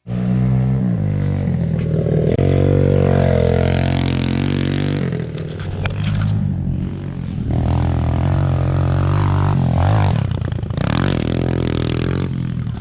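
A motor vehicle engine running, its pitch shifting a few times as the revs change.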